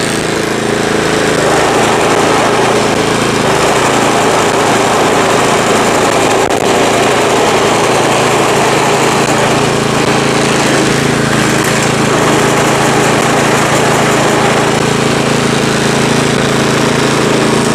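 Small single-cylinder engine of a Craftsman 28-inch two-stage snowblower running steadily at a constant speed, back in running order after having been seized.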